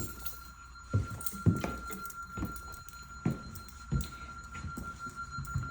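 Footsteps on a floor covered with silt and mud, a series of dull low thumps about one every half second to second. A steady high-pitched electronic tone sounds throughout.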